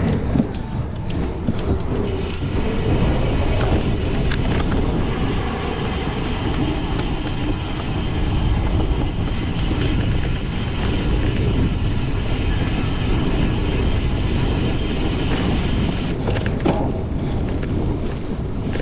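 Steady rumbling noise with scattered rattles and clicks, from a cyclocross bike being ridden hard over a rough course.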